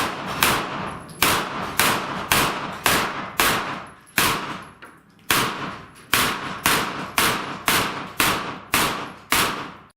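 A string of about twenty pistol-calibre gunshots in quick succession, most roughly half a second apart, with a longer gap of about a second near the middle. Each shot has a short echoing tail.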